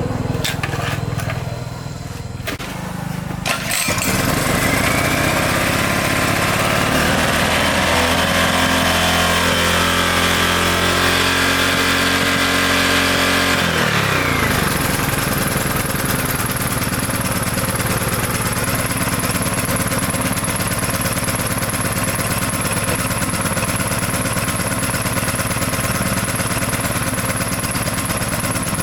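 A YLHX 1500 generator's small engine starts about four seconds in and revs up quickly, then runs fast and steadily. About ten seconds later it drops to a lower, steady running speed and keeps running, with a thin high whine over it.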